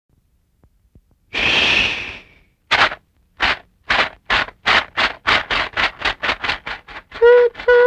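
Steam locomotive sounds: a hiss of steam, then chuffing that starts slow and speeds up, then two blasts on a steam whistle near the end.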